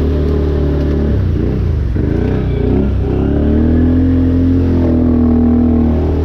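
ATV engine running under way, its pitch swinging up and down about a second in, then rising and holding higher for a few seconds before dropping back near the end.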